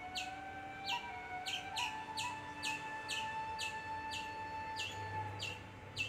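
A bird chirping over and over, quick high chirps that fall sharply in pitch, about two to three a second, with a slow melody of long held notes underneath.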